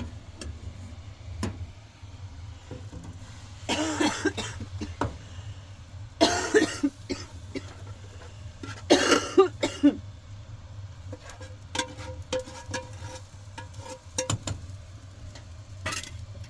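A woman coughing from a cold, in three bouts about 4, 6 and 9 seconds in, with short clicks and clinks of kitchenware in between.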